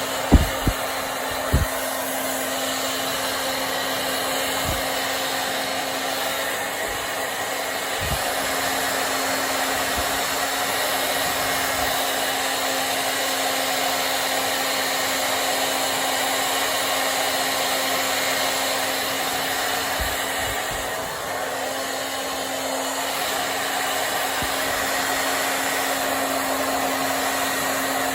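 Hand-held hair dryer blowing steadily, a constant rush of air with a low motor hum. A few brief knocks come in the first two seconds.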